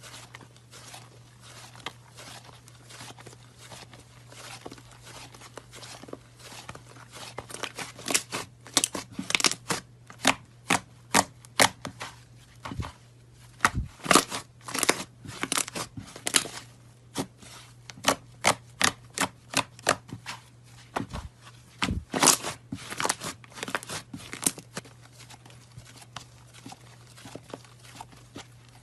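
Rapid crisp crunches and snaps, sparse at first, then dense and loud through the middle before thinning out again, over a steady low hum.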